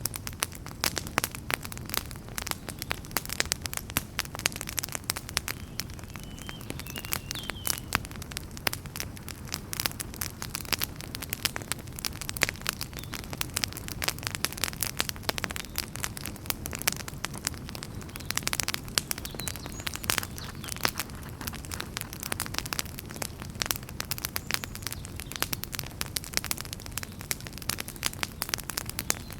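Wood fire burning in a fireplace, crackling with many sharp pops and snaps over a steady low rumble of the flames.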